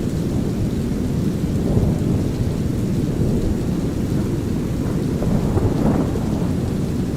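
Steady, deep brown noise mixed with a thunderstorm soundscape: low rolling thunder over light rain, swelling slightly about five to six seconds in.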